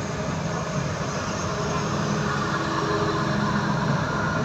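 A train running on the rails, a steady loud rumble with a fast rattle of wheels and carriages.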